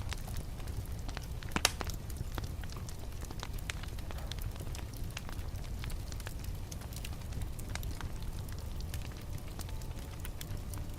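Wood fire crackling in a fireplace: scattered small pops and snaps over a low, steady rumble of flames, with one sharper pop about one and a half seconds in.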